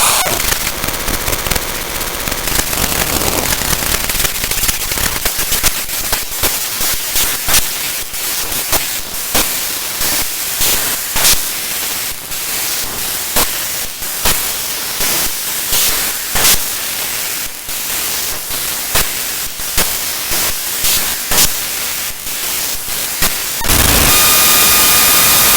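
Raw binary data of the executable DellTPad.exe played directly as audio samples: a harsh static-like hiss with many irregular sharp clicks and crackles. About two seconds before the end it changes to a louder, steadier hiss with a few faint thin tones in it.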